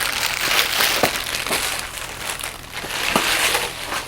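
Packaging crinkling and rustling, with a few sharp clicks, as the drain hose is taken out of its packing on the top styrofoam.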